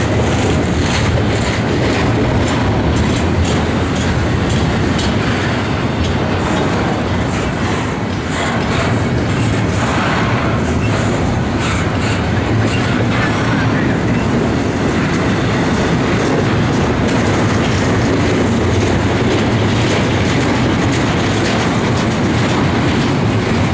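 Intermodal freight train rolling past close by: a steady, loud rumble of steel wheels on rail with repeated clickety-clack over the rail joints and a faint trace of wheel squeal.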